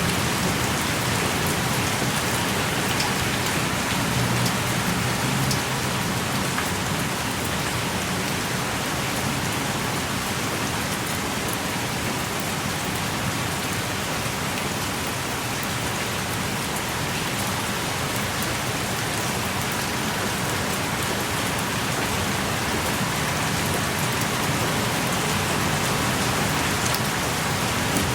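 Steady heavy rain falling outside a small cave, with scattered individual drops landing close by.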